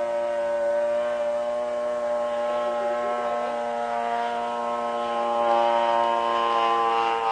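Gas engine of an RC Fly-Baby biplane, a Quadra Q65 two-stroke, running steadily at a constant buzzing pitch, getting a little louder about five and a half seconds in.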